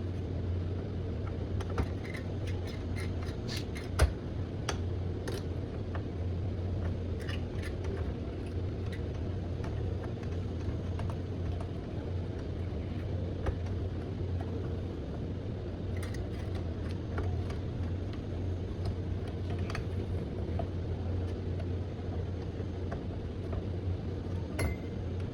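Screwdriver and small metal parts clicking and clinking now and then as the CPU cooling fan is unscrewed from a desktop computer, with one sharper click about four seconds in, over a steady low hum.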